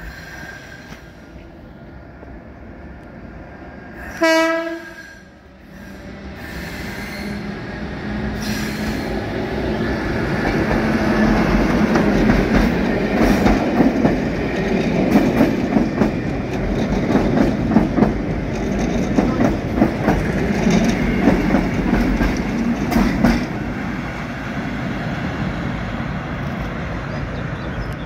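Class 73 locomotive and Network Rail test coach: one short horn blast about four seconds in, then the train runs close past. A rising rumble of wheels and motors with sharp clicks over the rail joints follows, easing slightly near the end as the train goes into the tunnel.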